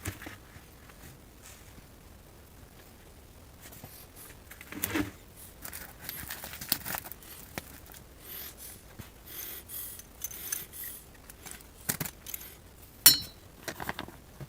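Handling noise: scattered clicks, scrapes and light rattles that start about four seconds in, with one sharp click near the end.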